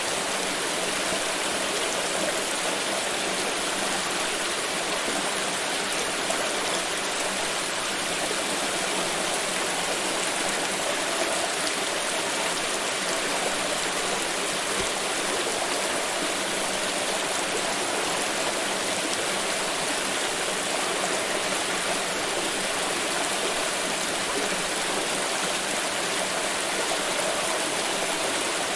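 Water pouring steadily, a continuous even splashing with no breaks or changes.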